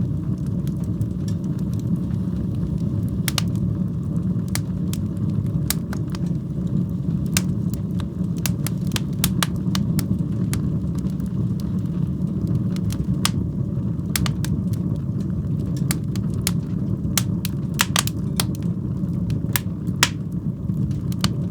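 Wood fire burning in a fireplace: a steady low roar of the flames with frequent sharp, irregular crackles and pops.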